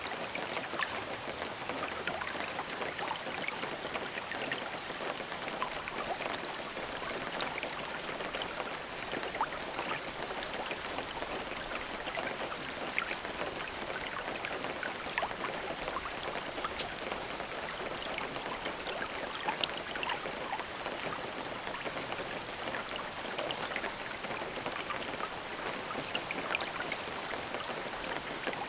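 Steady rain falling, a dense hiss of drops with many small individual drips and patters heard through it.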